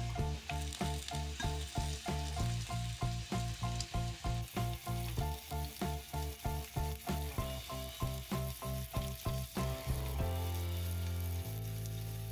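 Sliced potatoes and onions sizzling as they fry in a pan, under background music with a steady beat of about three pulses a second. About ten seconds in, the music changes to held chords.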